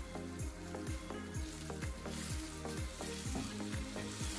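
Omena (small dried silver cyprinid fish) with onions and tomatoes sizzling in a pot while being stirred with a wooden spoon. Background music with a steady beat plays underneath.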